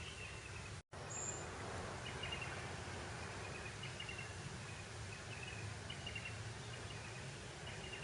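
Breeze over grassland: a steady hiss of wind, with short high chirps of insects or birds repeating about once a second. Just under a second in, the sound drops out to silence for an instant and then resumes.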